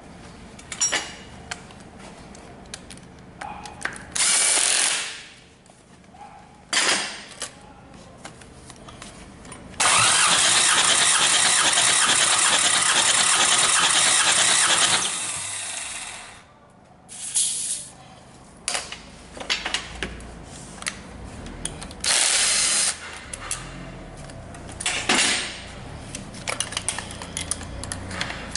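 Hyundai D4CB diesel engine turned over on its starter for a compression test, in several separate bursts of cranking. The longest runs about five seconds from roughly ten seconds in and then fades out; shorter noisy bursts come before and after it.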